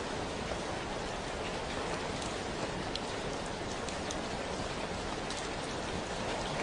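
Steady rain falling, an even hiss with scattered sharper ticks of single drops landing.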